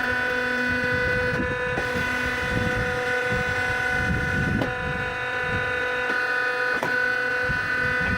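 Hydraulic wood splitter running steadily with a constant whine, with a few sharp knocks as logs are split and pieces fall.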